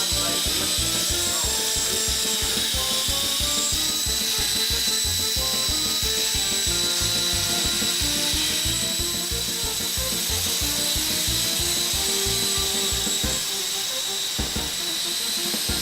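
Steady high whine from the electric motors of a Walkera 5#10 coaxial RC helicopter in flight, heard under background music with a melody and a steady beat.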